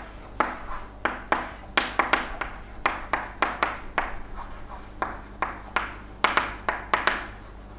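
Handwriting: a quick run of short, scratchy pen or marker strokes, irregularly spaced, stopping shortly before the end.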